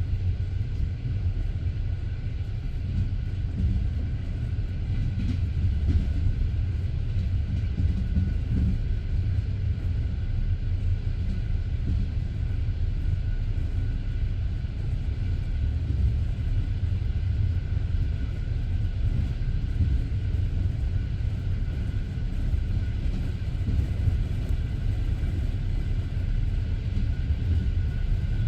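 Wheels of a moving passenger train, heard from inside the carriage: a steady low rumble with a few faint knocks from rail joints along the way.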